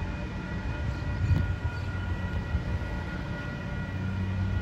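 Metrolink train led by an MP36PH diesel locomotive approaching from the distance: a steady low drone with a few steady high tones held above it.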